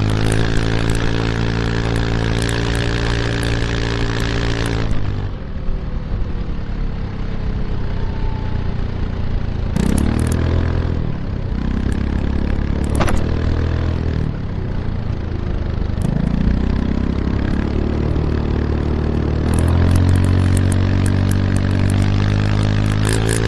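KYMCO X-Town scooter's single-cylinder four-stroke engine through an Arrow Urban exhaust with its dB killer fitted, heard from right beside the silencer while riding. It holds a steady throttle, drops off when the throttle closes about five seconds in, and picks up briefly twice. It then pulls up again about sixteen seconds in and settles back into a steady note near the end.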